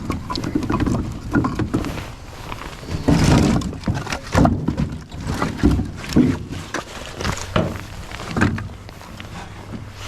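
Split firewood pieces being handled and tossed, clunking against one another in an irregular series of wooden knocks and thuds.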